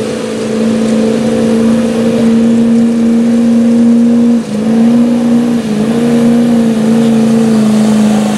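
A pulling truck's engine held at high revs as it drags the sled down the track, its note steady apart from two brief dips in revs about halfway through.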